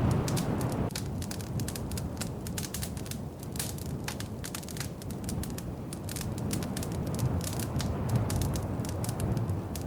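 Wood fire crackling in a fireplace: many irregular sharp pops and snaps over a low, steady rumble of flames, with a louder rush at the start that drops away about a second in.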